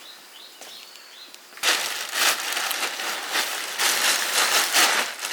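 A few faint bird chirps, then from about a second and a half in a loud, uneven rustling and crinkling noise, like dry vegetation or material being handled or pushed through.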